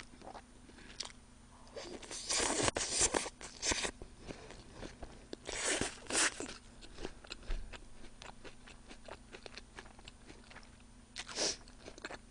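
Close-miked chewing of a mouthful of crunchy sliced onion. Crunchy bites come in short bursts a few seconds apart, with soft mouth clicks between them.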